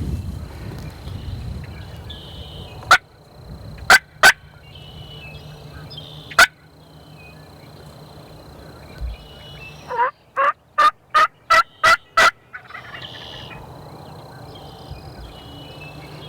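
Wild turkey calling: four sharp single clucks, then, about ten seconds in, a run of about seven yelps at roughly three a second.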